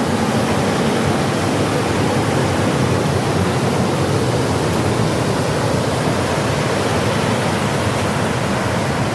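River water rushing steadily, close by.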